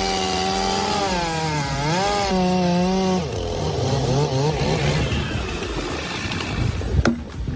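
Chainsaw engine running at high revs. Its pitch dips and recovers as it takes load in the wood, then falls to a rougher, lower running after about three seconds. A sharp knock comes near the end.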